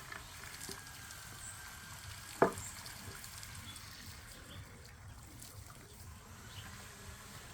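Faint steady hissing noise, with one sharp knock about two and a half seconds in.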